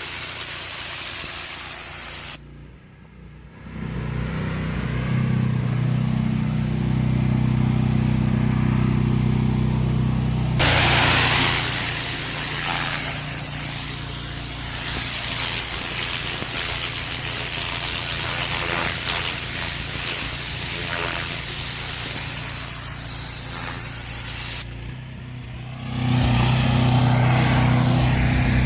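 Gas-engine pressure washer running steadily, with a loud hiss of high-pressure water spraying for long stretches. The sound drops away suddenly twice, then comes back with the engine alone.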